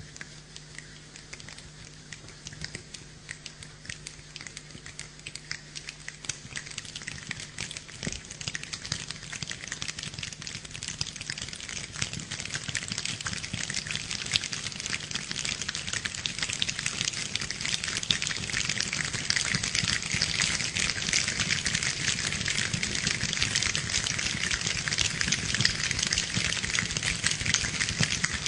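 Rain falling, a dense crackle of drops striking a surface that starts light and grows steadily heavier and louder.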